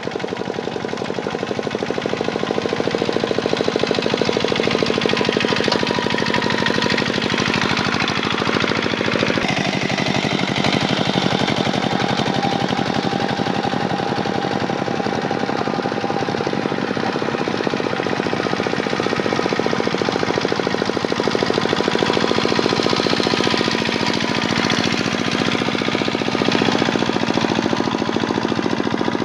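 Kubota tractor's diesel engine running steadily under load while plowing, with a fast knocking rattle. Its note rises and falls a little now and then.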